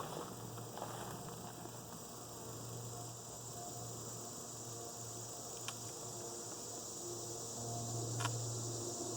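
Honeybees buzzing around an opened hive: a low hum that swells and fades, with single bees droning past. A steady high insect drone runs underneath, and there are a couple of faint clicks.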